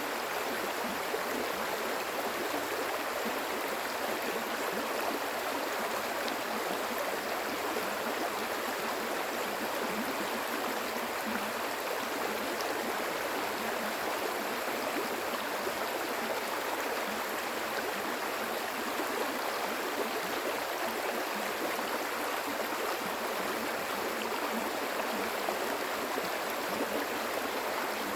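Stream water flowing steadily over rocks, an even rushing and gurgling.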